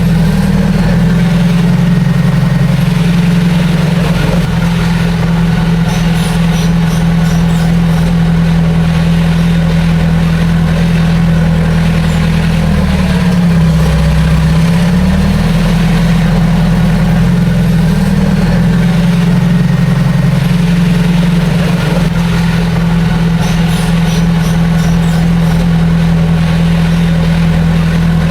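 Heavy diesel engine of earthmoving machinery running steadily and loud, its pitch dipping briefly about halfway through and then coming back up.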